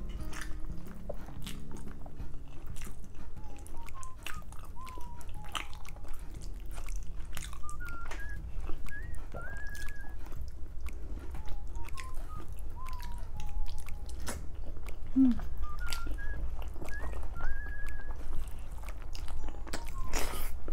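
Close-miked eating sounds: wet chewing, lip smacks and sharp mouth clicks as boiled pork leg meat, skin and rice are eaten by hand. Behind them a bird whistles short rising and falling chirps in several brief phrases.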